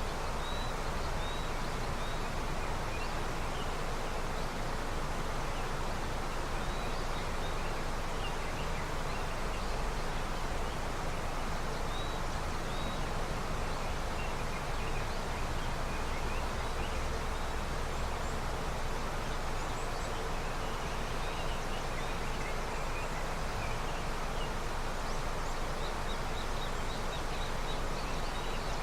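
Snowmelt river flowing steadily, with small birds giving brief high chirps now and then, a run of them near the end.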